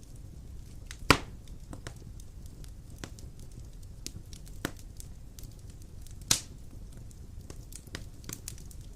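Fire burning in a fireplace: a steady low rumble with scattered small crackles, and two loud sharp pops, one about a second in and one about six seconds in.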